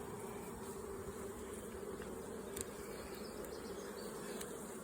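Honeybees buzzing around an open hive, a steady hum with a faint click about halfway through.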